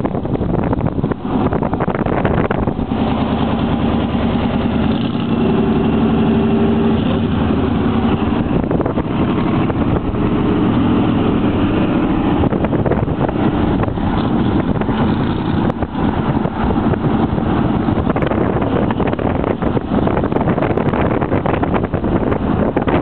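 The engine of an open vintage-style roadster runs as it drives slowly alongside, over road and wind noise. Its engine note stands out for several seconds through the middle.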